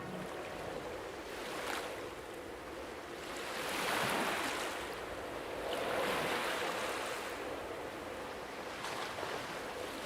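Sea water washing, an even rushing noise that swells and fades in slow surges, once about four seconds in and again about two seconds later.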